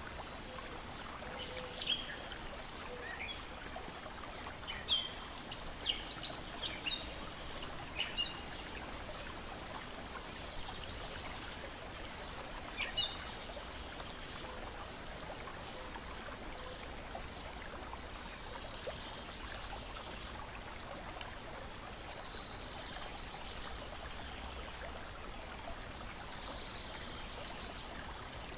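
Steady lapping and trickling of lake water at the shore, with songbirds chirping in a flurry during the first third, once more in the middle, and a brief high trill soon after.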